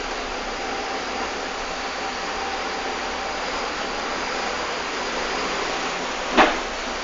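Steady cabin noise inside a moving Mercedes-Benz OF 1519 city bus with a Marcopolo Torino body, engine and road noise blended into an even hiss. A single short rattling knock comes near the end.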